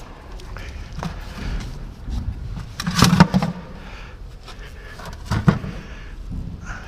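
A few knocks and clunks from parts and tools being handled during a filter change. The loudest is a short cluster about three seconds in, with another sharp knock about five and a half seconds in.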